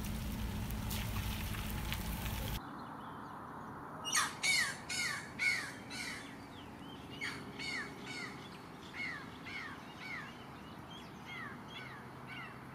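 A bird calling over and over, a string of short harsh calls that each drop in pitch, loudest at first and then fainter. Before the calls, a steady rumble of noise stops abruptly.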